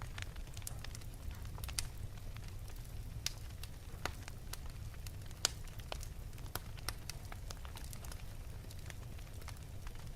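Wood fire burning in an open fireplace: irregular sharp crackles and pops over a steady low rumble of the flames, with one louder pop about five and a half seconds in.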